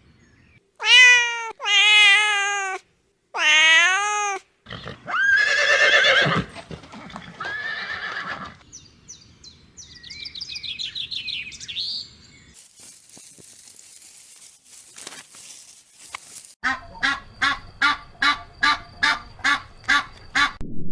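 A string of separate farm animal calls cut one after another: three drawn-out pitched calls in the first few seconds, a harsher, noisier call, short high chirps, then a run of short, evenly spaced calls at about three a second.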